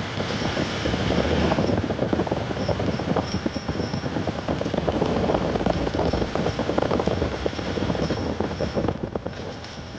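Motorbike riding over a rough, unpaved track: a steady run of rattling and knocking from the bike and the stony ground. It eases off a little about a second before the end.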